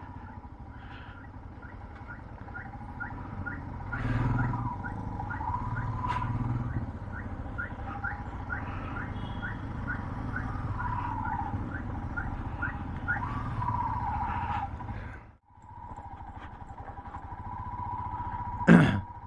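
Motorcycle engine running at low speed over a rough, broken road, with a short rising chirp repeating about twice a second through the middle and one sharp knock near the end.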